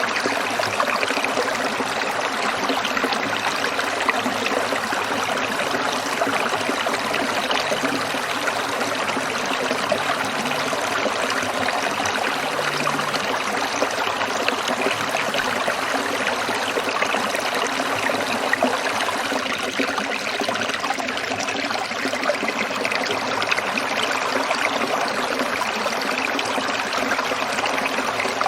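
A small stream trickling and splashing steadily over stones.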